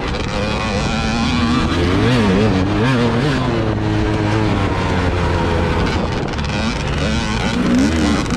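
An engine running, its pitch rising and falling several times as the throttle is worked, with a rush of wind noise on the microphone.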